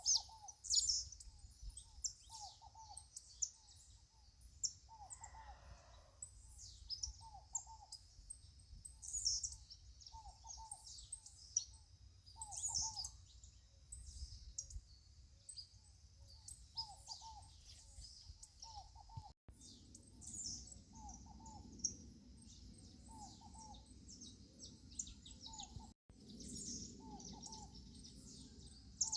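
Dawn bird chorus: many small birds chirping high, while one bird repeats a short, low hooting note about every second and a half. A faint steady low hum underneath grows fuller about two-thirds of the way through.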